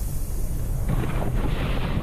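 Low, irregular rumble of wind buffeting the microphone.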